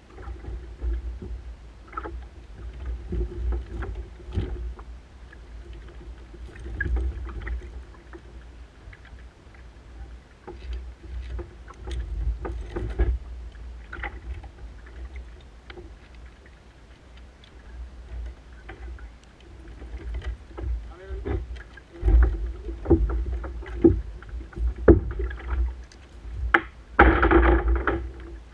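Kayak paddling on the water: irregular paddle strokes and splashes over a constant low rumble.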